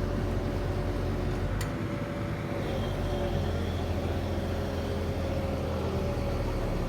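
An engine running steadily at a constant speed, its even hum unchanging throughout, with a single sharp click about a second and a half in.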